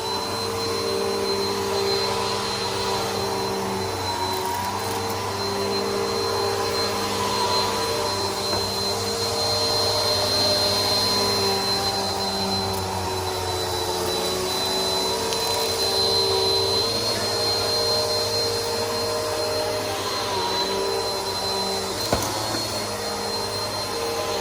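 Bissell PowerForce Helix upright vacuum cleaner running steadily, with a high motor whine over lower tones that shift slightly as it works; a single sharp click about 22 seconds in.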